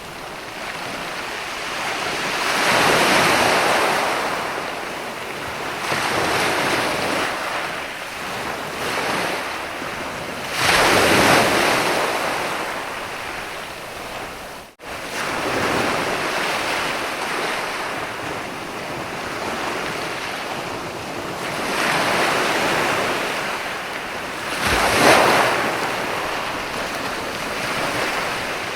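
Sea waves breaking and washing onto a sandy beach, the surf swelling and fading every few seconds. The surf cuts out for a moment about halfway through.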